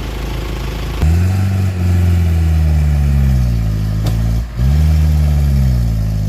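A vehicle engine revving hard under heavy load, straining to haul a truck bogged in mud up a slope on a tow cable. It comes in sharply about a second in, its pitch sagging slowly as it labours, drops off for a moment, then revs up again and sags once more.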